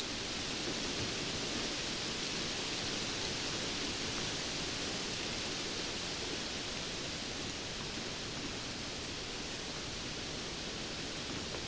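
Steady rainfall: an even, dense hiss of falling rain with no separate drops or thunder standing out.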